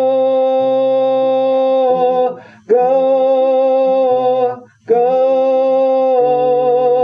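Music: a singer holds long wordless notes, three of them with short breaks about two and a half and four and a half seconds in, over low sustained accompaniment.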